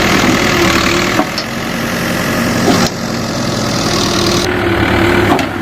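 Diesel engine of a CAT 424B2 backhoe loader running steadily, with a steady tone over it that shifts abruptly a couple of times.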